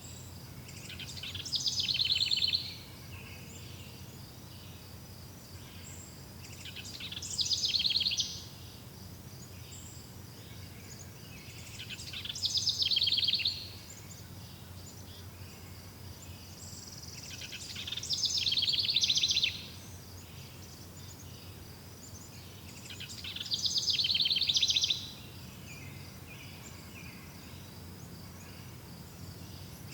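A songbird repeating the same trilled song phrase five times, about every five to six seconds; each phrase swells to loud and cuts off abruptly. Under it runs a steady high insect trill.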